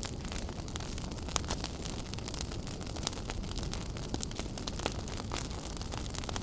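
Wood fire burning in a fireplace: a steady low rumble of flames with frequent irregular sharp crackles and pops, a few louder snaps among them.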